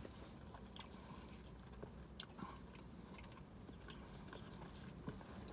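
Faint chewing with small scattered mouth clicks: a cake donut hole being eaten.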